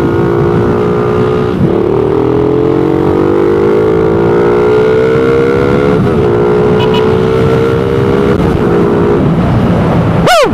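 Suzuki Raider 150's single-cylinder four-stroke engine running through its stock exhaust pipe. The revs climb slowly for a few seconds and then settle. A short sweeping whoosh comes near the end.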